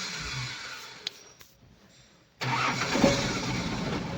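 Engine noise fades almost to silence. About two and a half seconds in, a heavy diesel engine cuts in abruptly, running loud and steady with a low throb.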